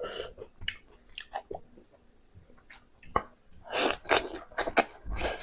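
Close-miked chewing and biting of pork, with irregular wet mouth smacks and clicks, sparse at first and busier in the second half.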